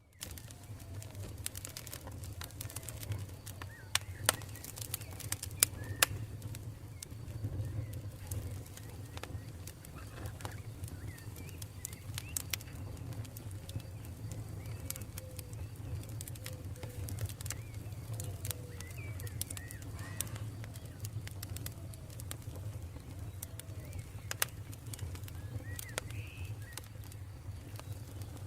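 A campfire burning with a steady low rumble and frequent sharp crackles and pops, the loudest about four to six seconds in. Faint short calls go on in the background throughout.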